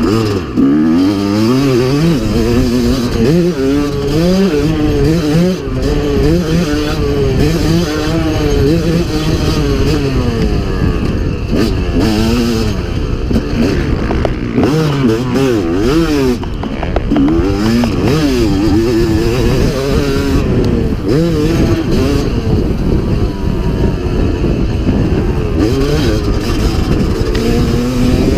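Motocross dirt bike engine being ridden hard, revving up and dropping back over and over as the rider throttles and shifts through the track's corners and jumps.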